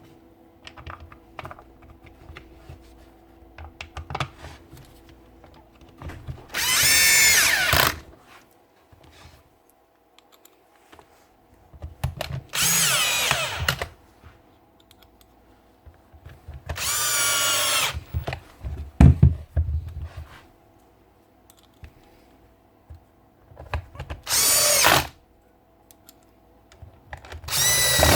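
Cordless SDS drill motor, a DeWalt DCH273 18V, run in five short bursts of a second or two each, with small clicks and knocks of handling in between.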